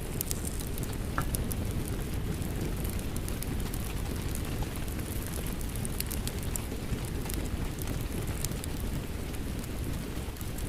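Steady rain with a crackling wood fire: an even, low wash of rain with many sharp crackles and pops scattered throughout.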